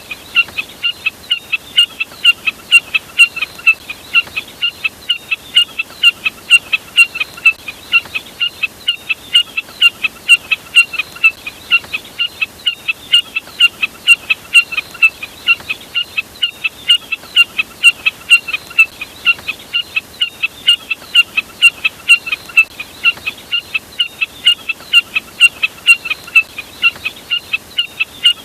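Jack snipe (burcet) lure recording: a short, sharp call note repeated evenly about three times a second, without a break.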